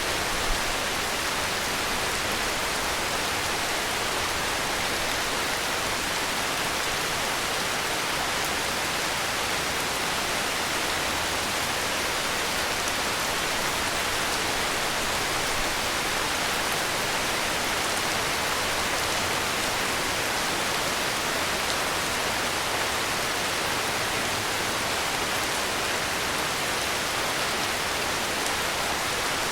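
Heavy rain falling steadily: a dense, even hiss of rainfall with no breaks or changes in level.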